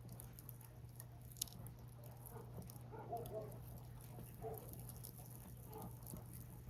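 Burning firewood crackling with irregular small pops, one sharper pop about a second and a half in.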